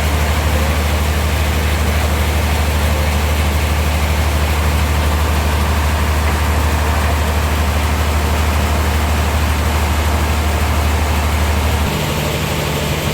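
Sawmill machinery running steadily, with a deep engine hum under a wide hiss. Near the end the deep hum drops away, leaving a higher, lighter hum.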